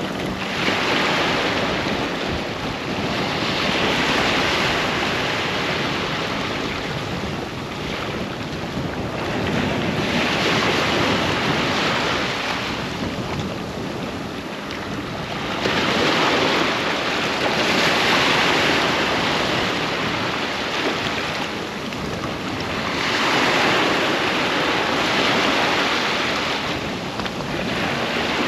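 Ocean waves breaking and washing on a sandy beach, the surf swelling and easing every few seconds, with some wind on the microphone.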